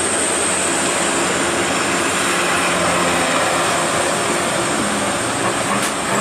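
Truck engine running under a steady, loud rush of road noise, with a brief click near the end.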